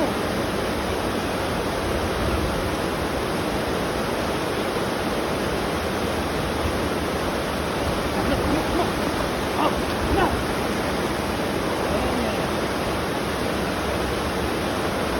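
Steady loud rushing noise, like running water or wind on the microphone. Near two-thirds of the way in there are a few faint short squeaks.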